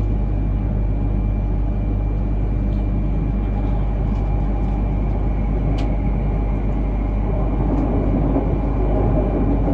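Cabin running noise of an E3 series Shinkansen at speed: a steady rumble and rush with a faint steady high tone on top.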